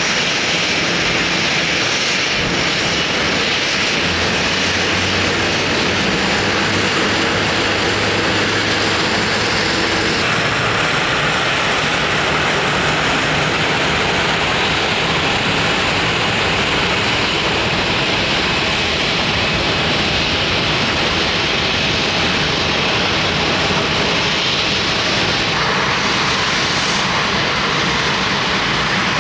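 Airliner engines running loud and steady at close range, a continuous roar whose low hum drops out about ten seconds in.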